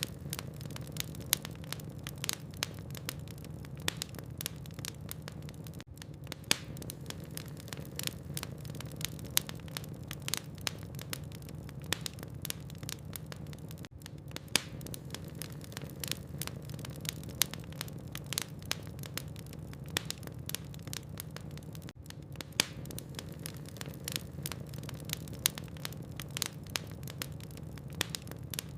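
Logs burning in a fireplace, crackling with irregular sharp pops and snaps, a few of them much louder, over a steady low hum.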